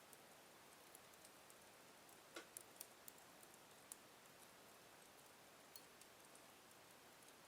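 Wood fire in a fireplace crackling faintly: scattered sharp pops and ticks over a low hiss, with a small cluster of pops about two and a half seconds in.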